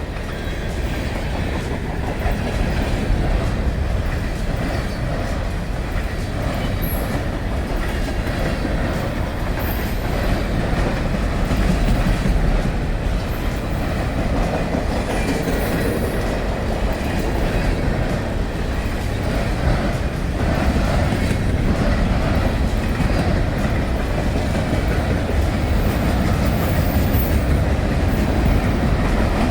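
Train passing on the main line, a loud, steady noise of wheels running on the rails that keeps up for about half a minute.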